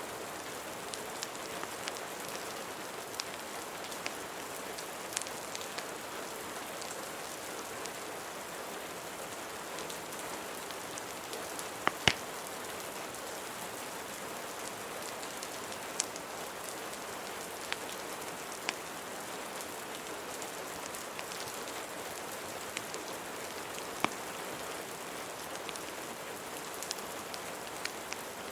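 Steady rain with scattered sharp crackles and pops from a wood fire, the loudest a quick double pop about twelve seconds in.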